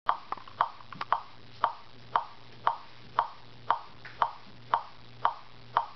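Steady ticking, a short click about twice a second, with a couple of weaker extra clicks in the first second.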